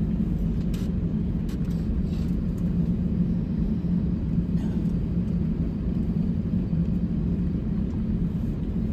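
Steady low rumble heard inside the cabin of an Airbus A350-900 airliner, with a few faint clicks over it.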